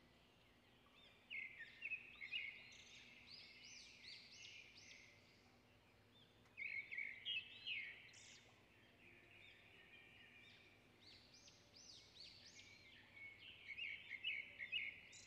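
Small birds chirping and singing, faint, in three spells of quick high notes with near quiet between.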